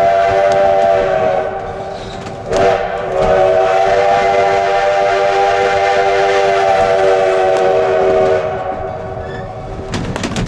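Steam locomotive's chime whistle sounding for a grade crossing: a long blast that ends about a second and a half in, a short toot a second later, then a long blast of about five seconds, over the train's running noise.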